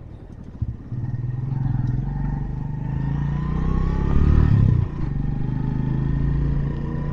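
Motorcycle engine opening up about a second in and rising in pitch as it picks up speed, peaking around four seconds in, then dropping back to a steady run.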